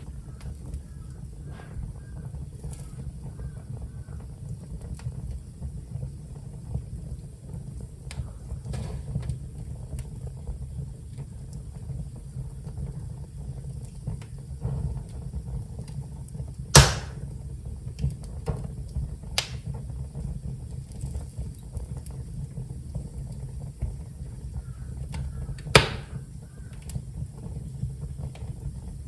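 Wood fire burning in a fireplace: a steady low rumble with scattered small crackles and two loud, sharp pops, one a little past the middle and one near the end.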